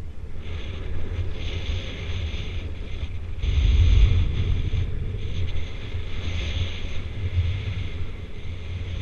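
Wind rushing over the microphone during a paraglider flight: a steady low rumble with a hiss that comes and goes, loudest about four seconds in.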